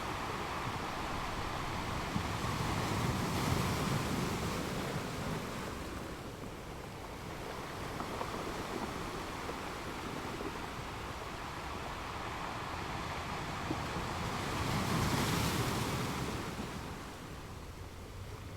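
Ocean waves crashing against rocks: a constant wash of surf that swells into two larger breaks, one about three to four seconds in and another about fifteen seconds in, each fading back afterwards.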